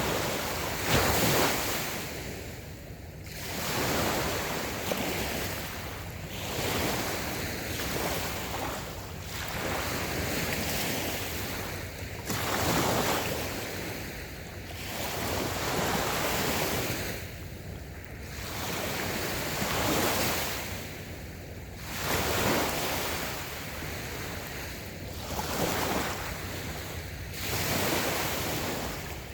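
Small, gentle waves breaking and washing up on a sandy beach, the surf swelling and fading every two to three seconds.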